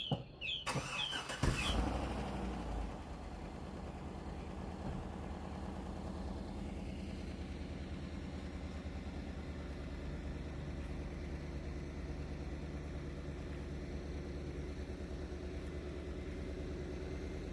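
A few bird chirps, then, about a second and a half in, a loud onset and the steady low hum of an engine idling.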